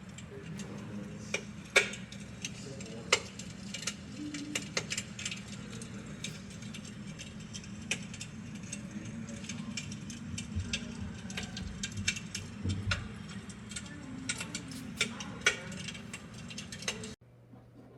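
Electric fireplace's simulated fire-crackling sound effect: irregular pops and crackles over a steady low hum, cutting off suddenly near the end as it is switched off.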